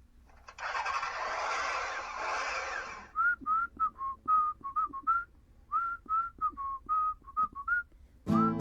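A rushing noise lasting a couple of seconds, then a whistled melody of short, clipped notes: the opening of a whistled theme tune.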